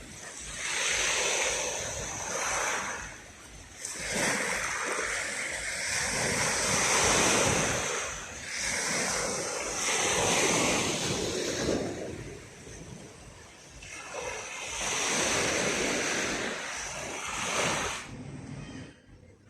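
Black Sea waves breaking on the shore. The surf surges and draws back about four times, each wave rising and falling over a few seconds, and it fades away near the end.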